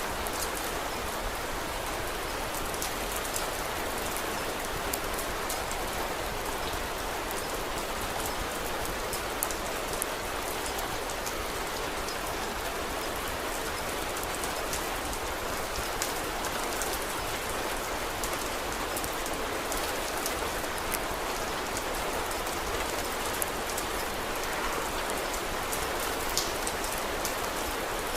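Steady rain falling, with many small sharp ticks and a few louder pops scattered through it.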